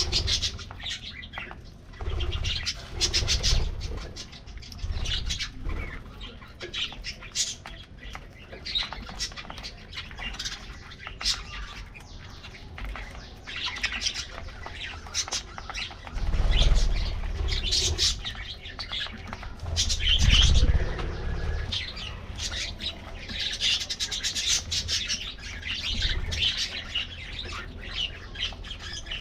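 A flock of budgerigars chattering with many quick overlapping chirps and warbles, with wing flutters. Low rushes of sound come through, loudest twice in the second half.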